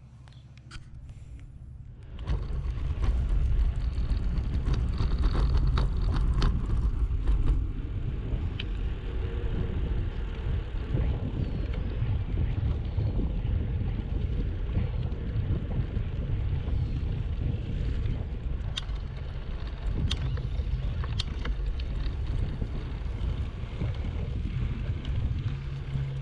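Wind rushing over a GoPro Hero 7 Black's microphone while cycling: a heavy low rumble that jumps up suddenly about two seconds in, with a few scattered clicks.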